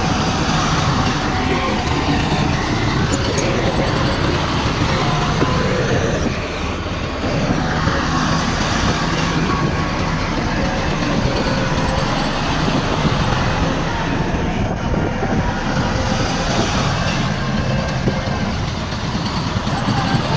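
Heavy diesel earthmoving machinery, a bulldozer and dump trucks, running steadily with a constant engine drone and rumble.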